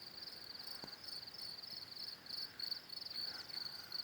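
Crickets chirping at night, a high, evenly repeated pulsed chirp that keeps going without a break.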